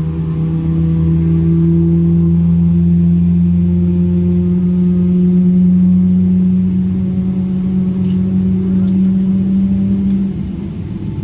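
General Electric GE90 turbofan engine of a Boeing 777-300ER starting up, heard from inside the cabin. It makes a loud, steady low drone with tones that rise slowly in pitch as the engine spools. The main drone drops away about ten seconds in.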